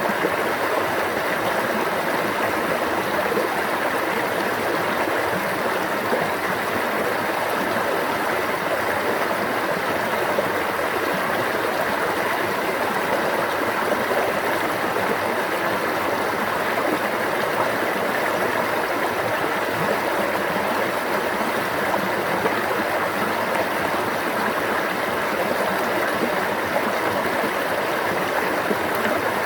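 A stream babbling steadily, an even, unbroken flow of water.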